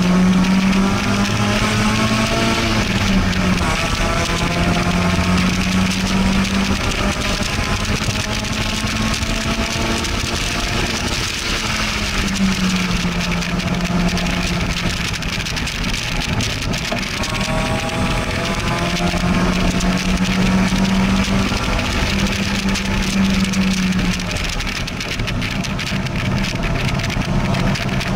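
Convertible sports car's engine under hard acceleration on a race track, its pitch climbing several times and dropping back as it shifts gears and lifts for corners, with strong wind rush through the open cockpit.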